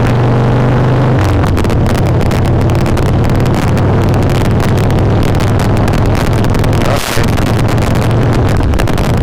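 Carbureted Harley-Davidson V-twin running at low, steady revs under way, heard through a helmet chin mic with wind rushing over it. The engine note drops a step about a second in, and the sound dips briefly about seven seconds in.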